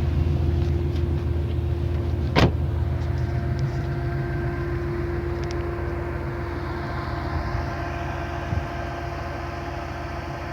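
Old Jeep's engine running while driving, heard from inside the cab as a steady low hum that eases off and gets a little quieter. A single sharp click cuts through about two and a half seconds in.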